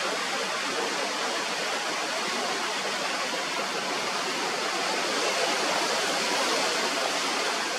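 Strong wind blowing steadily across the microphone, a constant rushing noise.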